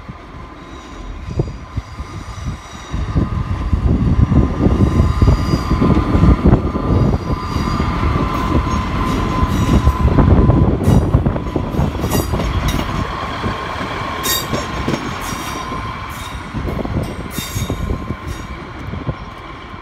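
A Northern diesel multiple unit passing close by along the platform: engine and wheels rumbling on the rails, loudest about a third of the way in, then fading as it moves away. A thin wheel squeal runs through it, and sharp short squeaks and clicks come in the second half.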